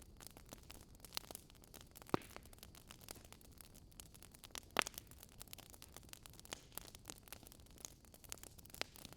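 Wood fire crackling: irregular small pops and snaps over a faint hiss, with two louder snaps about two and five seconds in.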